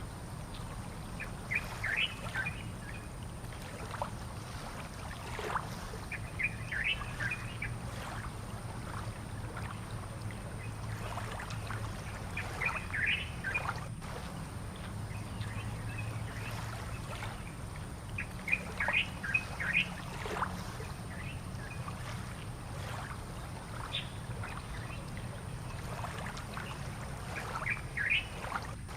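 Small birds chirping in short runs of quick notes that recur every few seconds, over a steady low rumble and hiss of outdoor ambience.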